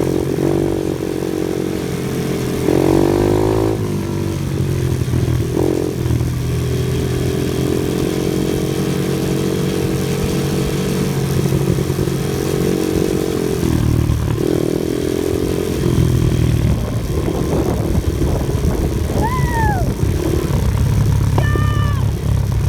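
Off-road vehicle engine running under changing load, its revs rising and falling several times as it drives. Two short high squeals come near the end.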